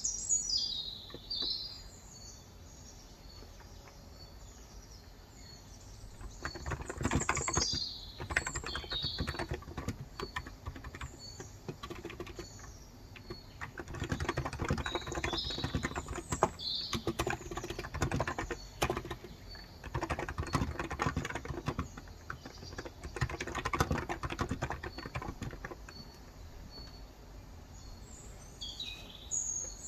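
Typing on a Cox Endeavor electro-capacitive 35g tenkeyless keyboard in quick runs of keystrokes, starting about six seconds in after a pause. Birds chirp now and then above the typing.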